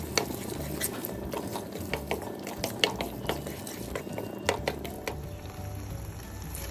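A wooden spatula stirs onion-tomato masala frying in a pan: irregular clacks and scrapes of the spatula against the pan over a low sizzle. The stirring stops about five seconds in.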